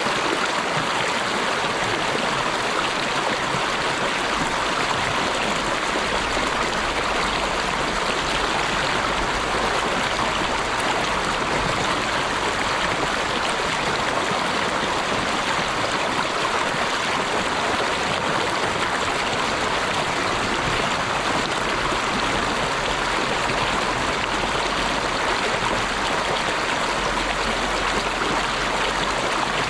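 Running water, like a stream: a steady, even rush with no breaks or changes.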